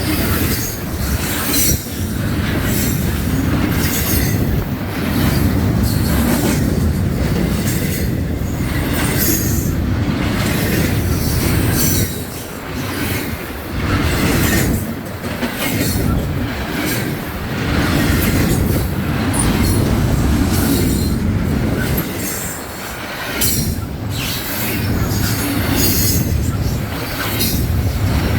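Freight train cars rolling past with a steady, heavy rumble and repeated clicks of wheels over the rail joints. The sound dips briefly a few times before building again.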